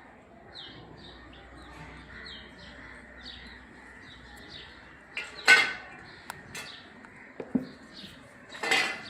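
Small birds chirping repeatedly. Two louder, brief clattering noises come about halfway through and near the end, with a few sharp clicks between them.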